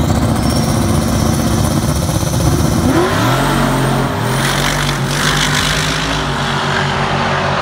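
Car engine accelerating hard from a standing dig start. Its pitch climbs, then climbs again in steps about three seconds in as it shifts up.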